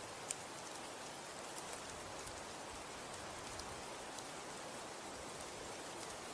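Falling snow, a steady soft hiss with scattered light ticks of flakes or pellets striking, the sharpest one just after the start.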